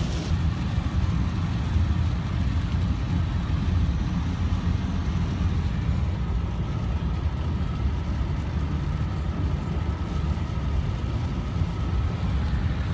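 A car driving: a steady low road and engine rumble.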